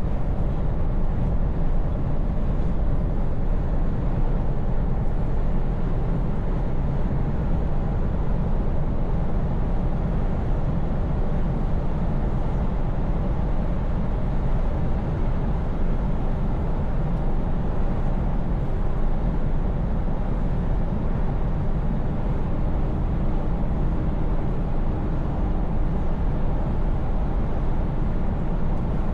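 Scania S580 truck's V8 engine running at a steady cruise: an even low drone mixed with road and tyre noise, holding steady with no revving or gear changes.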